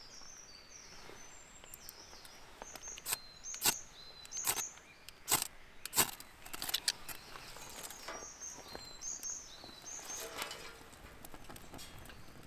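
Small birds chirping on and off in short high calls, with a few sharp clicks or taps in the middle seconds.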